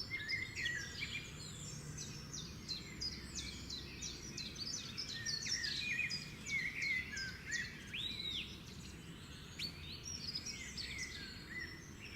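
Several birds singing and calling at once: a dense run of quick, high chirps and short whistles, overlapping, over a steady low rumble of background noise.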